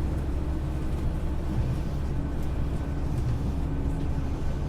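Okinawa Yui Rail monorail running between stations, heard from inside the car: a steady low rumble with a faint even hum over it.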